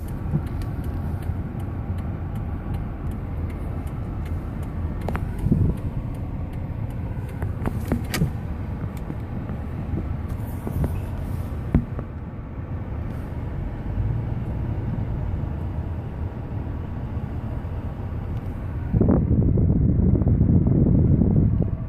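Road traffic: the steady low rumble of cars running along the street, with a few sharp knocks. The rumble swells louder for about the last three seconds.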